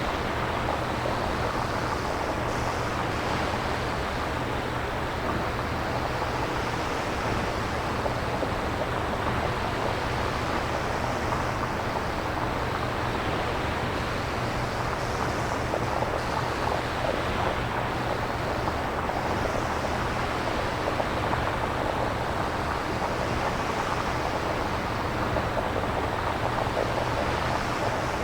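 Synthesized nature ambience: a steady, even rushing noise with slow gentle swells, like surf or wind, generated electronically rather than recorded.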